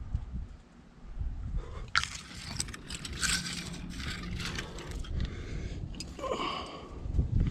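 Irregular scraping and crunching, as of a climber's body, clothing and gear rubbing against rock while moving up a chimney, over a low rumble on the microphone. A short pitched sound comes near the end.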